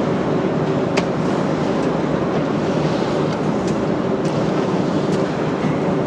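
Steady mechanical running noise from production machinery, with a few short sharp clicks, the loudest about a second in.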